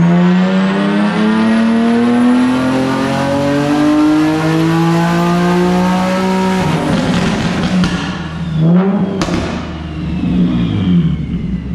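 Turbocharged stock-block VQ37HR V6 in an Infiniti G37 making a full-throttle dyno pull: the engine note climbs steadily in pitch for about seven seconds, with a high turbo whistle rising above it. Then it lifts off, and about two seconds later comes a sharp crack followed by a fainter falling whistle.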